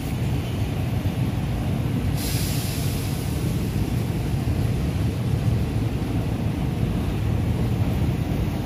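Passenger train running along the track, heard from an open carriage window: a steady low rumble, with a brief hiss about two seconds in.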